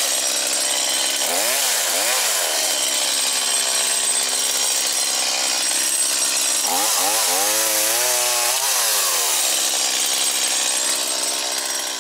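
Chainsaw running at full throttle cutting birch firewood, its engine pitch dipping and recovering as the chain bites, most clearly about two seconds in and again for a couple of seconds past the middle. The saw cuts off near the end.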